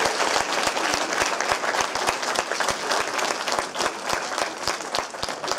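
Audience applauding: many people clapping at once, thinning out a little near the end.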